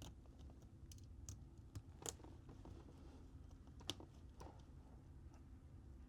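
Faint, scattered small clicks and taps, about five of them, the sharpest about 2 and 4 seconds in, from parts and tools handled while the motherboard goes back into a Samsung Galaxy S22 Ultra.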